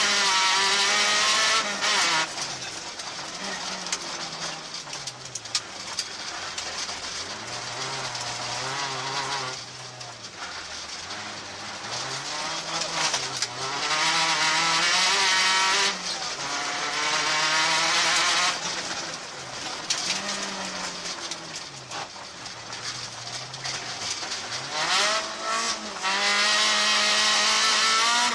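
Peugeot 106 rally car's engine, heard from inside the cabin, driven hard: the revs climb and drop again and again as it accelerates, shifts gear and lifts off for corners. The loudest full-throttle pulls come at the start, around the middle and just before the end.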